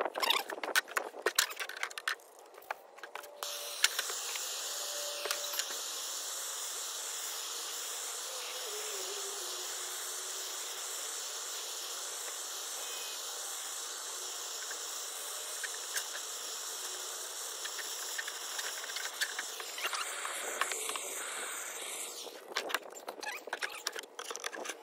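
A torch flame hissing steadily while it softens plastic, starting about four seconds in and cutting off near twenty-two seconds. Clattering handling knocks come before and after it.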